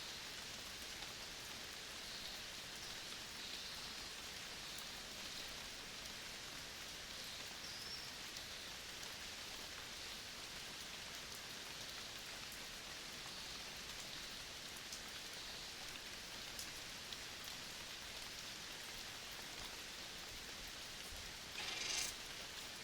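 Steady, even hiss of natural outdoor ambience, with a few faint short chirps and a brief louder rustle near the end.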